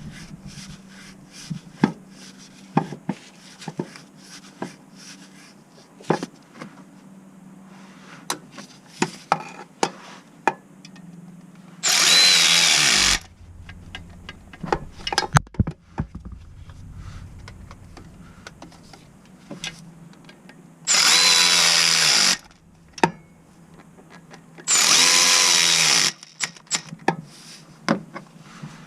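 Cordless power tool run in three short bursts of about a second each, spaced several seconds apart, with a motor whine. Scattered clinks and knocks of tools and metal parts are heard between the bursts.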